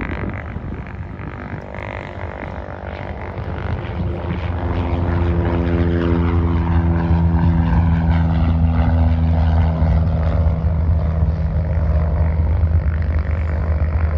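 Propeller aircraft engine running with a steady low drone. It grows louder about four seconds in, then holds at an even pitch.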